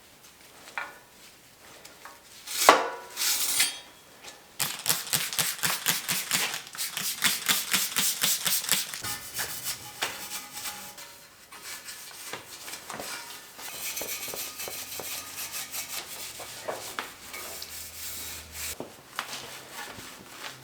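Bicycle being taken apart with hand tools: a sharp clank about three seconds in, then a long run of quick clicks and rubbing of metal parts that thins out toward the end.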